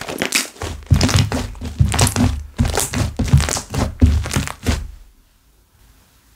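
Slime being squished and pressed by hand: a quick run of soft thuds with crackling bubble pops that stops about five seconds in.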